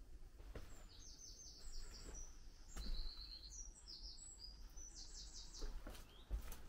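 A small bird singing: runs of quick, high chirps, one about a second in and another near the end, with other short calls between. A few low thumps sound under it.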